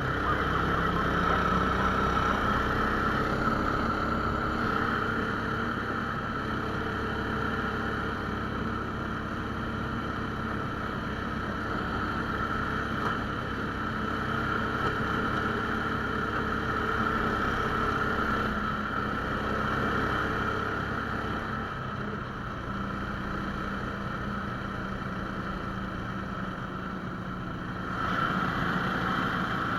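A 17 hp Lifan single-cylinder four-stroke engine on a motorized towing sled running under load while riding. It picks up speed in the first couple of seconds, holds a steady drone, and gets louder again near the end.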